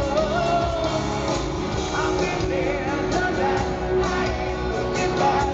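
A live rock band plays a song while a voice sings over it, recorded from the audience.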